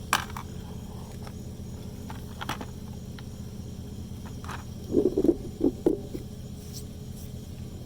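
Metal parts of the old fuel pump assembly being handled: a sharp click just after the start, a few light taps, then a quick run of clanks about five seconds in, over a steady low hum.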